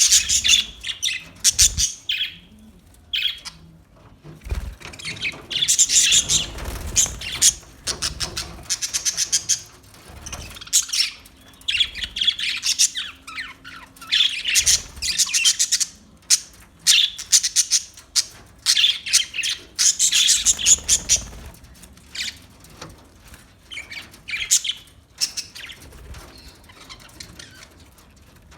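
Pet budgerigars chirping: runs of rapid high chirps and twitters in bursts of a second or two, with short pauses between.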